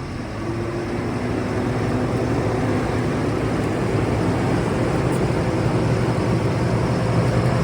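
Large wood chipper's engine running hard and steadily, getting louder over the first couple of seconds and then holding.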